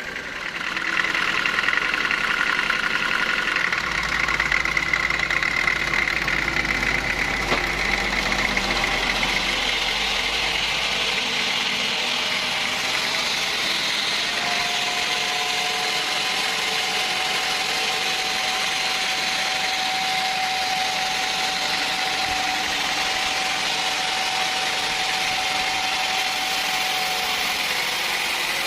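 Sawmill running steadily: an even mechanical noise with a faint high whine, rising to full level about a second in.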